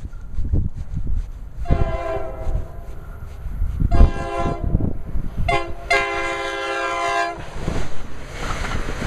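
Electric passenger train's horn sounding four blasts, a long one, two short ones and a long one, over wind buffeting the microphone, followed by the rush of the train going by.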